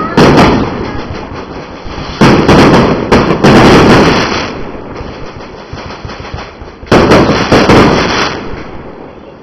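Fireworks going off in rapid volleys of loud bangs: a burst right at the start, a longer volley about two seconds in, and another about seven seconds in, each dying away slowly afterwards.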